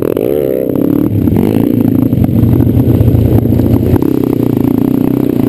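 Pit bike engine being ridden off-road, its revs rising and falling as the throttle is worked, with rattling and clattering from the bike over rough ground.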